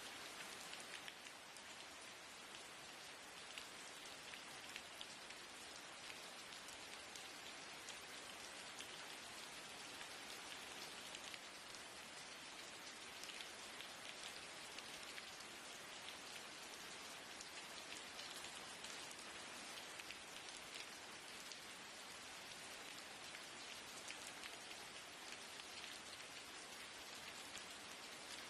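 Steady rain falling, a constant hiss dotted with the fine ticks of individual drops hitting a surface.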